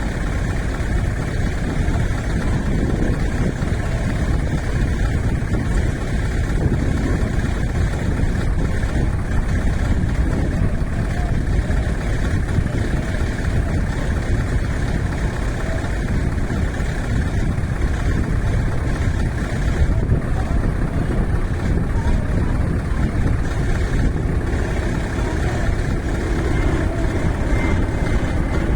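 Heavy truck's diesel engine running steadily, a continuous low engine sound.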